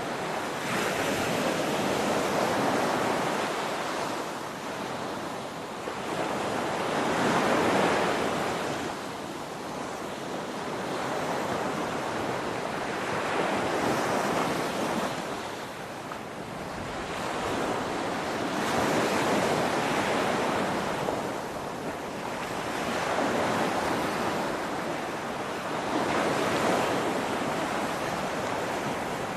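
Ocean waves breaking on a shore, one swell after another about every five to six seconds, each surging up and then washing back.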